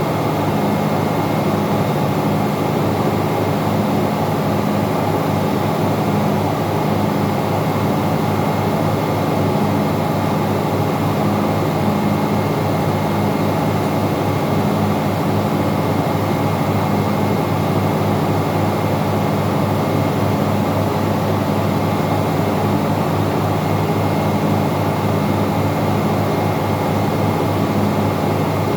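Steady, loud drone of engine-room machinery, with a slow regular pulse in its low hum and a faint high steady whine.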